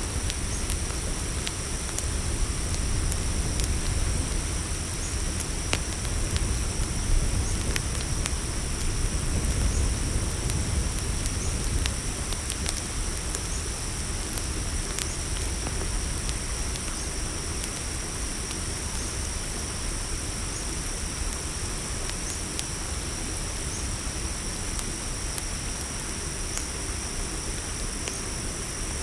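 Campfire crackling with scattered sharp pops, over a steady high chorus of night crickets and a low rumble. The rumble is a little louder in the first twelve seconds or so.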